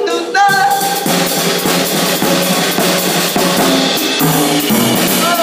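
Live band music: a drum kit playing a steady groove under a walking bass line, with a short sung phrase near the start.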